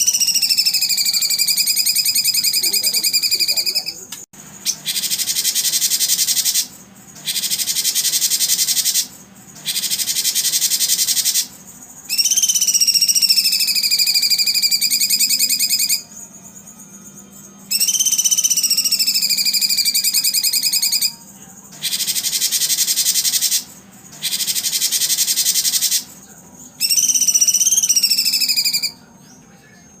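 A caged songbird's recorded song: long whistled phrases that slide slightly downward, alternating with harsh, buzzy rapid trills. Each phrase lasts a few seconds, separated by short pauses.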